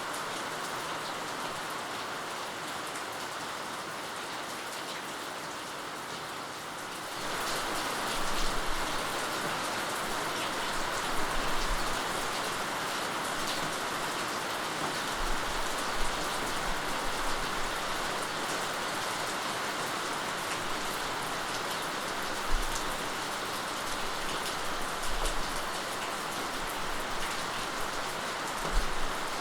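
Rain falling steadily, a continuous even patter that grows louder about seven seconds in.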